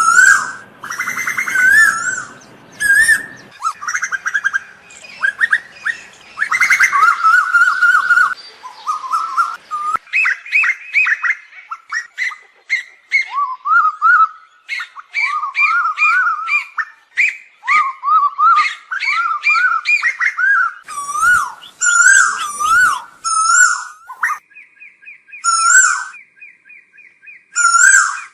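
Asian koels calling: a rapid run of repeated, overlapping whistled calls, each rising and falling in pitch. A steady high tone is held for about four seconds near the end.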